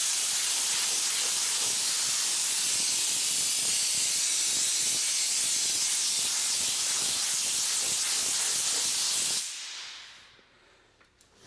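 A steady, loud hiss of rushing air or gas, strongest in the high range, that stops about nine and a half seconds in and trails off over the next second.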